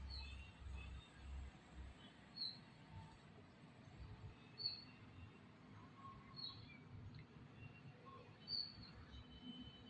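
A bird chirping faintly: short, high chirps repeated about every two seconds.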